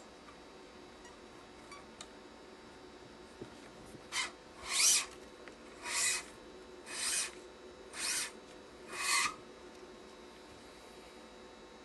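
Nylon badminton string being drawn through the racket's main strings while the crosses are woven, giving six short rasping zips about a second apart.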